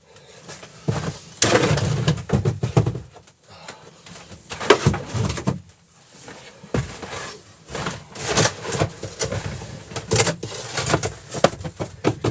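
Irregular knocks, clatter and scraping of objects being handled and moved about, coming in bursts with short pauses between.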